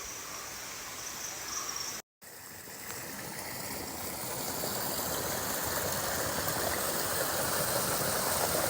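Rushing water of a forest stream, a steady noise that breaks off briefly at a cut about two seconds in and then grows steadily louder.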